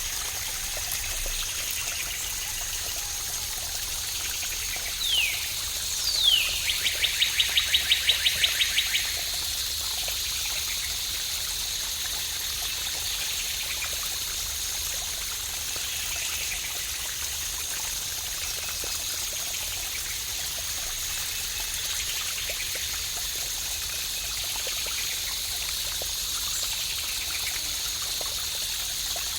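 Cascading water running steadily with a bright, even splashing rush. About five seconds in, a bird calls over it: two quick falling whistles, then a fast run of about a dozen notes lasting a couple of seconds.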